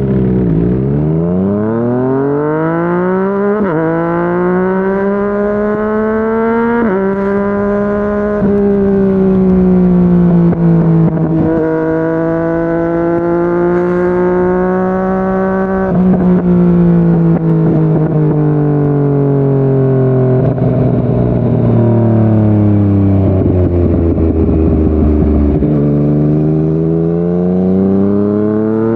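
Yamaha MT-09's three-cylinder engine through a Yoshimura R55 slip-on exhaust, accelerating hard with revs climbing and dropping sharply at two upshifts in the first seven seconds. It then cruises at steady revs, eases off with the revs sinking slowly, and picks up again near the end.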